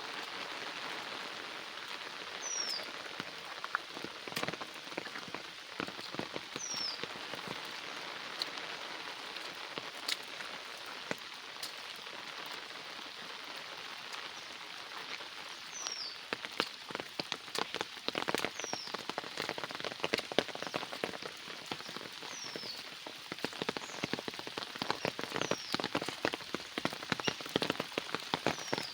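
Steady rain falling, with many nearby drops striking as sharp separate taps that come thicker in the second half. A short high falling chirp repeats about eight times through the rain.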